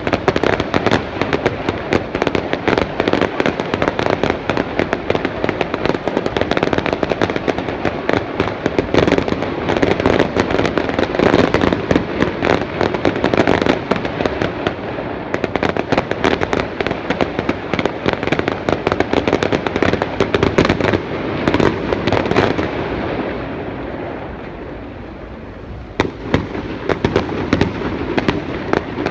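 Fireworks display: a dense, continuous barrage of bangs and crackles. The barrage eases into a quieter stretch about three-quarters of the way through, then the bangs start again near the end.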